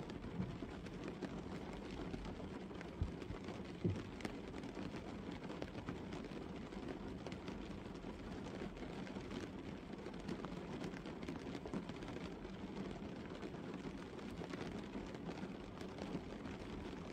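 Steady light rain falling on a parked car, heard from inside the cabin as a continuous spatter of drops on the windscreen and roof. A couple of louder knocks come about three and four seconds in.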